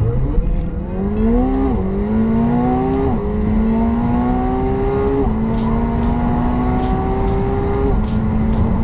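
McLaren 720S's 4.0-litre twin-turbo V8 at full throttle, its pitch climbing through each gear and dropping at four quick upshifts, each gear lasting longer than the one before.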